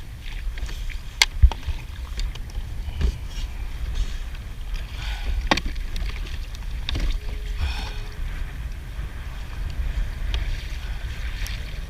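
Kayak on the water with a steady low rumble of water and wind, and a few sharp knocks and clicks as a heavy crab pot's line is hauled in by hand.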